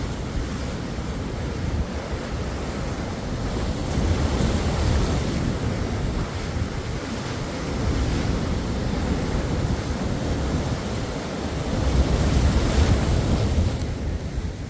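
Ocean waves washing onto a shore, a continuous surf rush that swells three times, most strongly near the end, with low wind rumble on the microphone.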